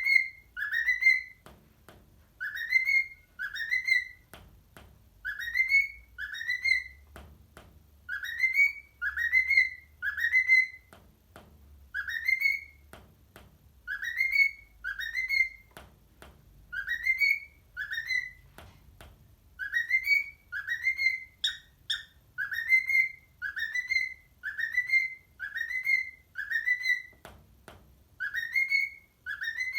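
Male cockatiel whistling: short, clear notes that swoop up and down, mostly in pairs, repeated over and over as a tune.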